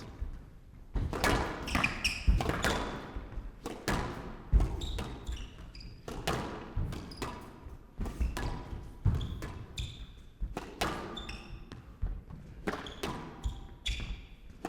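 A squash rally: the ball struck by rackets and hitting the walls every half second to a second, with short shoe squeaks on the court floor between the shots.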